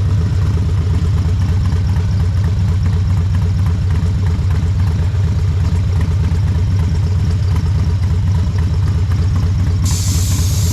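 Harley-Davidson V-twin motorcycle engine idling steadily, with a brief hiss near the end.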